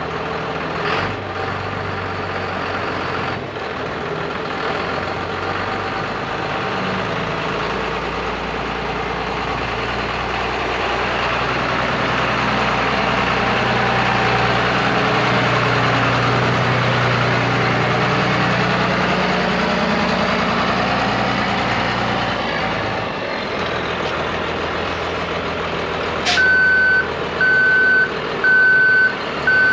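A Cummins diesel truck engine runs steadily, working harder and louder for a stretch midway before easing off. About 26 seconds in there is a short sharp sound, and then the truck's backup alarm starts beeping about once a second.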